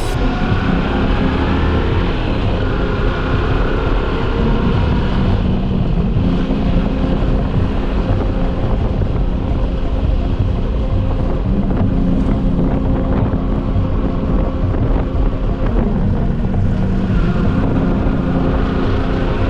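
Motorcycle engine running while riding, its pitch climbing and settling several times as the revs change, with wind rushing over the microphone.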